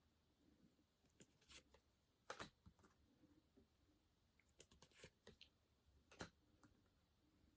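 Faint scattered clicks and light rustles of Pokémon trading cards being handled and flipped through, a few small snaps in quick clusters with quiet between.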